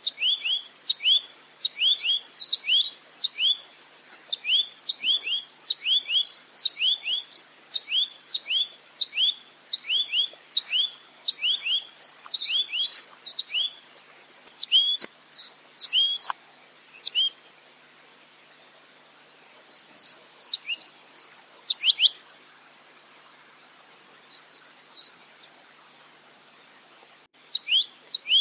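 A rambatan (nuthatch) calling in rapid runs of short, sharp, downward-slurred notes, about three or four a second, with some higher notes mixed in. The runs pause twice into sparser calls, then the rapid run starts again near the end.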